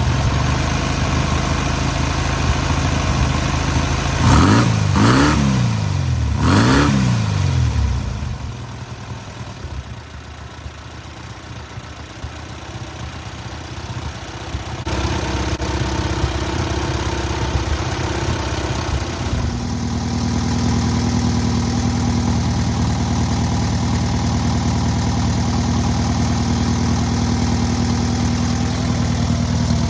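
Newly rebuilt air-cooled VW 1600cc flat-four engine running on its break-in. It is blipped up and back down three times a few seconds in, goes quieter for several seconds, then settles back into a steady run.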